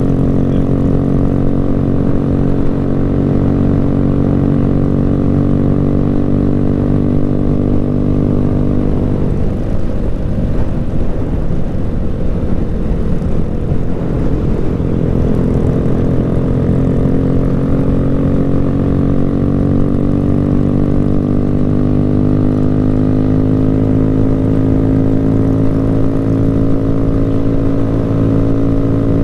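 Motorcycle engine running on the road, a steady note that turns rough and unsteady about nine seconds in as the throttle eases, then settles and climbs slowly in pitch as the bike speeds up again.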